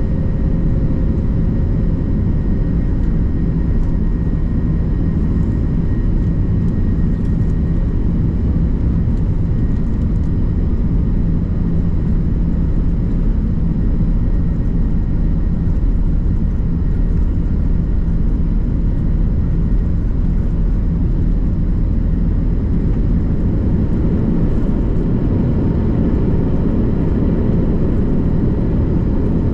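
Airbus A330-200 jet airliner engines running: a steady, loud drone with a strong low rumble and a few faint steady whines above it, unchanging throughout.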